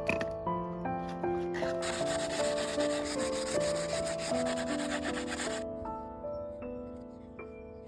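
Bamboo being sanded or rubbed by hand, a steady hissing scrape that starts about two seconds in and stops abruptly about three and a half seconds later. Soft piano music plays throughout.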